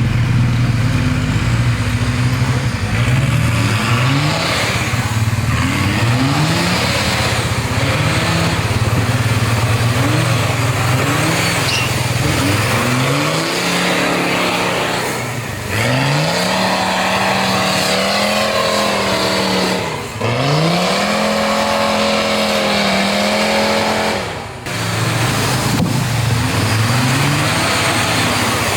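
Off-road 4x4 competition rig's engine revving hard. For about the first dozen seconds the driver gives short repeated throttle blips, then holds long stretches of high revs that drop off briefly three times.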